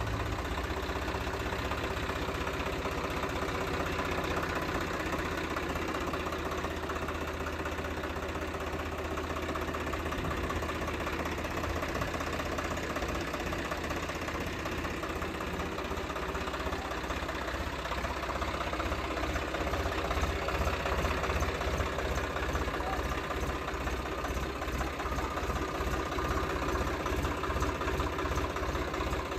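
Swaraj 735 FE tractor's three-cylinder diesel engine idling steadily with a low, even throb.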